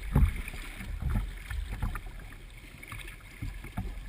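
Supra boat under way, heard from a GoPro aboard: wind buffets the microphone in irregular low gusts over a steady rush.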